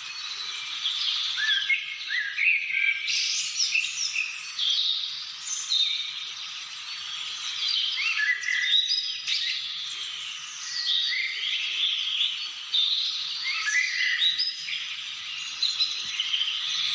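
A chorus of wild birds singing and calling at once, many overlapping quick chirps and whistles.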